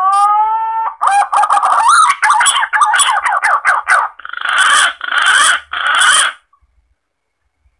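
Green pigeon (punai) lure call: a rising whistled note, then a quick run of wavering whistles, then three short harsh rasping calls.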